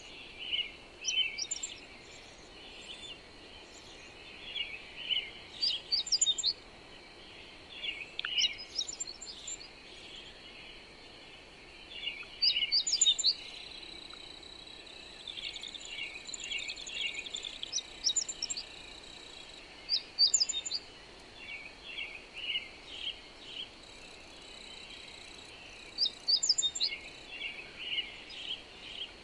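Songbirds chirping and singing in short, quick bursts of high notes every second or two, over a faint steady hiss and a thin high steady tone.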